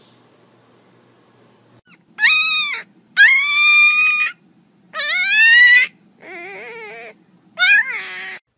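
Young black-and-tan puppy howling: five high-pitched calls, the second and third the longest, the fourth quieter and wavering.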